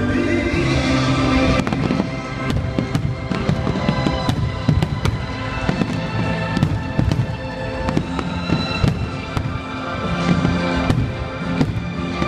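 Fireworks going off in rapid succession, many sharp bangs and crackles, over loud orchestral display music.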